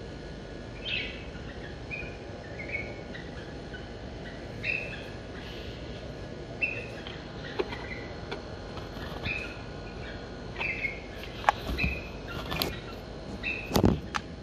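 Small caged birds giving short, repeated chirps, about one a second, over a steady hiss. In the last few seconds, louder knocks and a low rumble of handling noise cover them.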